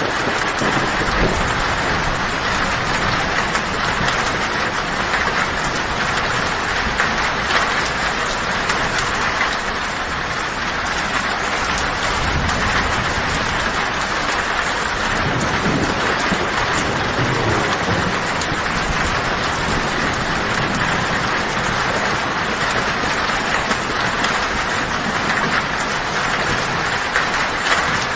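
Heavy rain falling steadily on a tin roof, with low thunder rumbling about halfway through.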